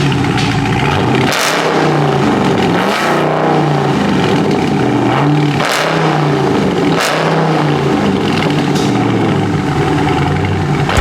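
2021 Dodge Challenger Scat Pack's 392 Hemi V8 revving repeatedly, the revs climbing and dropping back several times, through an exhaust with the mid-mufflers and resonators deleted.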